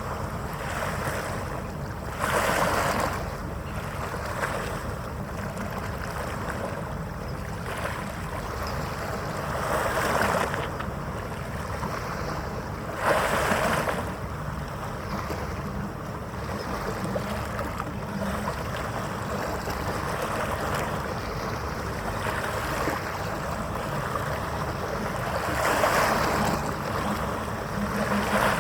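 Steady wind and water noise, with waves washing in, swelling louder every few seconds.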